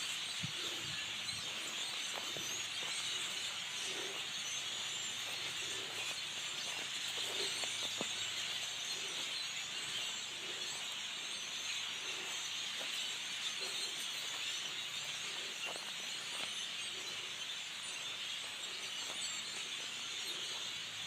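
A dense, steady chorus of a great many birds chattering and calling all at once, a continuous high wash of overlapping calls.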